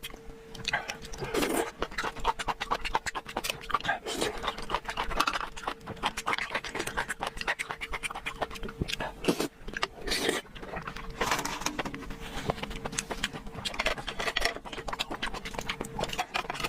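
Close-up eating sounds: a mouth chewing seafood with rapid, irregular wet clicks, smacks and breaths, over a faint steady hum.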